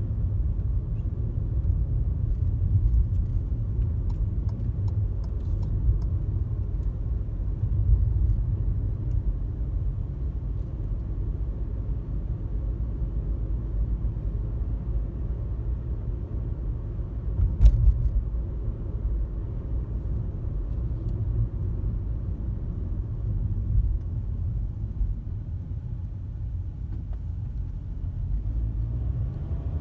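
Car driving on a highway: a steady low rumble of road and engine, with a single short bump about two-thirds of the way through.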